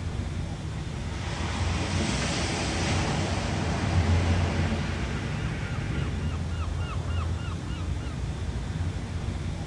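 Ocean surf over a steady low rumble, with a wave breaking and washing in about two seconds in. About five seconds in, a bird gives a quick series of short calls, about three a second, for some three seconds.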